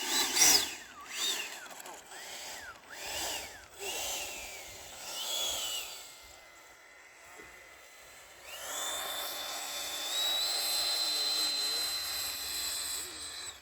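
Electric ducted-fan motor of an RC jet whining as the throttle is blipped several times, its pitch rising and falling. From about two-thirds through it settles into a steady high whine, steps up a little, and cuts off at the end. It is running on a 6-cell pack although it is set up for 8, which the owner blames for too little power.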